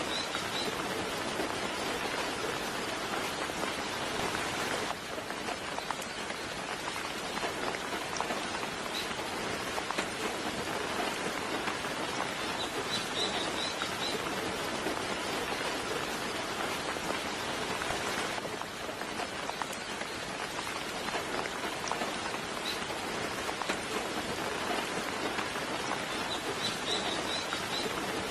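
Steady, gentle rain falling, an even patter. Short high bird chirps come three times: at the start, about halfway through and near the end.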